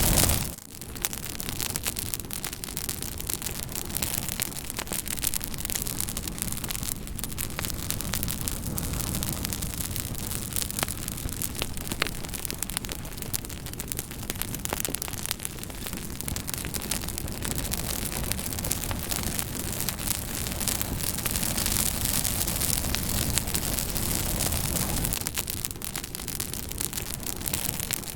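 Campfire burning with a steady hiss of flame and many small crackles and snaps throughout; the level dips briefly about half a second in.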